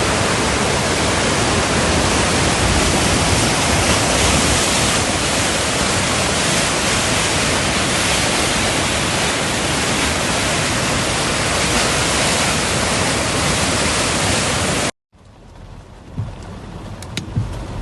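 Floodwater rushing down a wadi in spate: a loud, steady rush of water that cuts off abruptly about fifteen seconds in. A much quieter outdoor background follows, with a few faint clicks.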